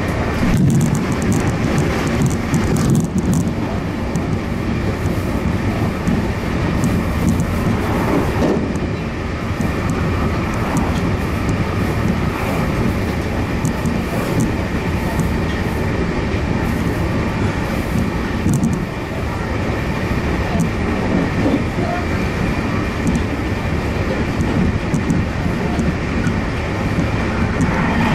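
Cabin noise of a Meitetsu limited express electric train running at speed: a steady rumble of wheels on the rails, with occasional clicks.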